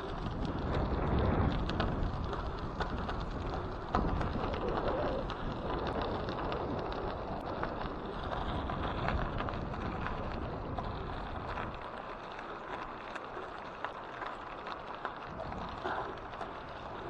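Bicycle tyres (700x32 Maxxis Refuse on a Schwinn CX cyclocross bike) rolling over a gravel trail: a steady crunching rumble scattered with small ticks of gravel. The low rumble eases off after about twelve seconds.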